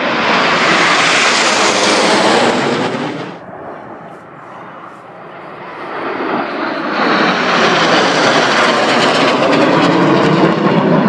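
Jet aircraft flying past at an airshow display: a loud engine roar for about the first three seconds, a lull, then a second roar that swells from about six seconds in.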